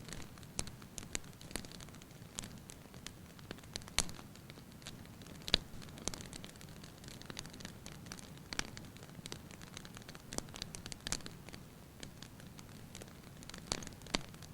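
Wood fire in a fireplace crackling, with irregular sharp pops over a soft steady hiss; two pops about four and five and a half seconds in stand out as the loudest.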